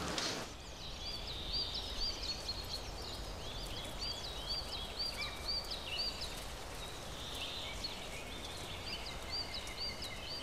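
Birds chirping: a run of short, high, hooked chirps repeating several times a second over a faint low rumble of outdoor ambience.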